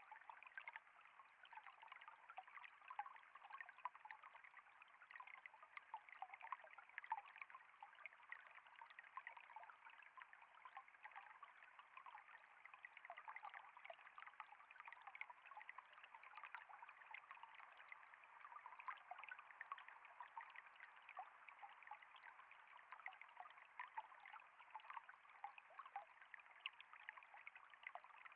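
Water trickling steadily, a faint, continuous patter of many small splashes, light and without any deep rumble.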